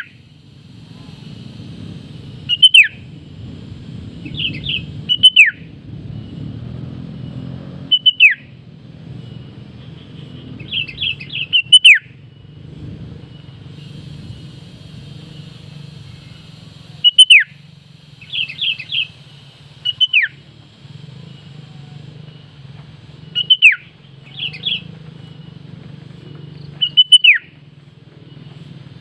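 Female sooty-headed bulbul calling to a rival: short, loud bursts of quick notes, several ending in a sharp falling whistle, repeated every few seconds over a steady low hum.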